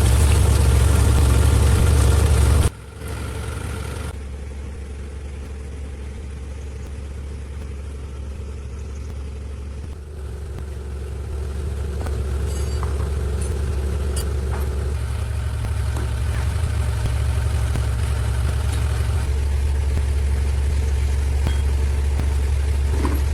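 An engine running steadily with a low rumble. The sound drops abruptly about three seconds in, then slowly builds again.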